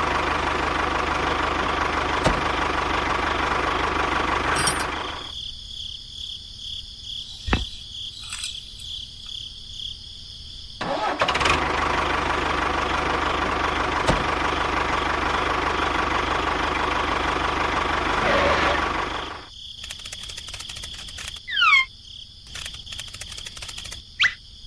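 A small electric motor running, in two spells of about four and eight seconds with a quieter gap between. It ends with a few clicks and short squeaks.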